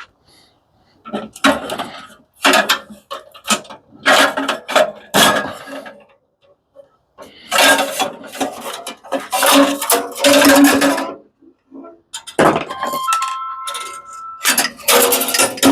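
Metal parts of a stripped-down industrial coffee machine clattering and clanking in repeated bursts, each with the same ringing note. In the last few seconds a phone begins ringing, a steady electronic two-tone ringtone.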